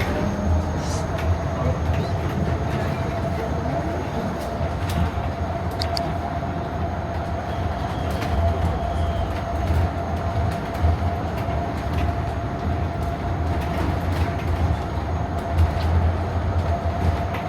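Transjakarta city bus heard from inside the cabin while moving: a steady low drive rumble with a constant whine from the drivetrain that climbs slightly as the bus pulls away, with a few light rattles.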